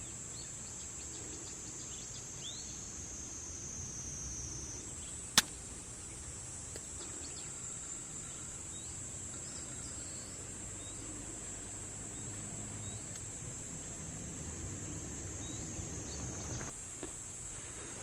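Steady high-pitched insect chorus, its pitch stepping slightly twice, with a single sharp pop from the campfire about five seconds in.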